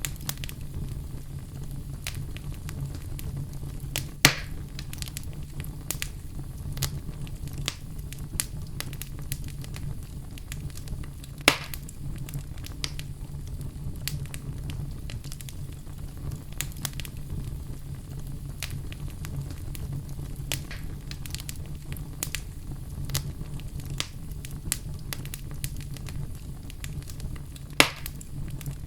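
Wood fire crackling over a steady low rumble, with many small crackles and three louder pops: about four seconds in, about eleven seconds in, and near the end.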